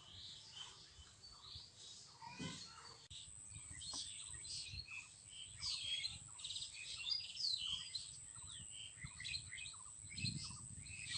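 Background birds chirping and calling, many short high calls overlapping, with a steady high-pitched whine joining about three seconds in.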